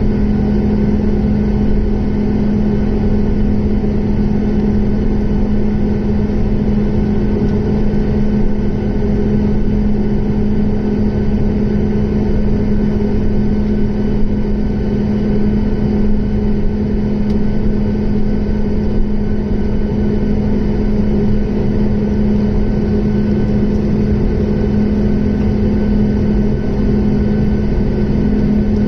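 Boeing 737's jet engines running in a steady drone, with a strong low hum that holds the same pitch and level throughout.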